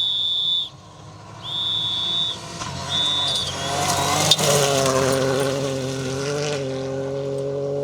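Three high electronic beeps, then the Ford Fiesta Rally4's engine rises in pitch as it is revved, with a sharp click about four seconds in, and runs on at a fairly steady pitch.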